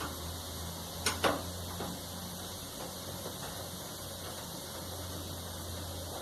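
A couple of sharp clicks about a second in, then a few faint ticks, from tools and parts being handled while a clothes dryer is taken apart, over a steady low hum.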